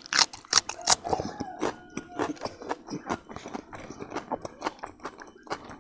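Close-miked chewing of a mouthful of rice and roasted pork: wet mouth clicks, smacks and small crunches, densest and loudest in the first second.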